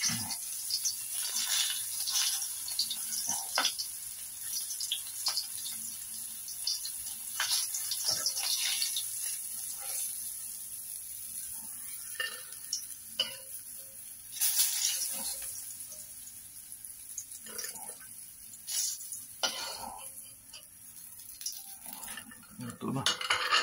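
Pork frying in a wok, with a steady sizzle and many irregular clinks and scrapes of a utensil against the pan.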